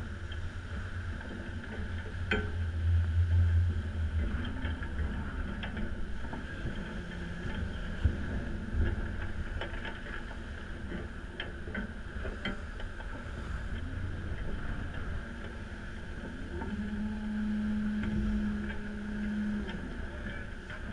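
Gale-force wind buffeting the microphone over the rush of water aboard a Lagoon 620 sailing catamaran running downwind, with scattered clicks and knocks. A low steady hum comes in for a couple of seconds near the end.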